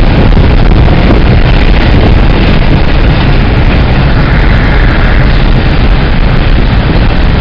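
Car driving at speed: loud, steady road and wind noise with a heavy low rumble.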